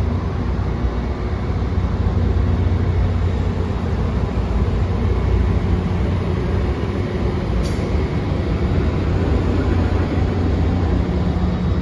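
Train noise: a steady rumble with a low hum underneath, holding level throughout, with one brief high click about eight seconds in.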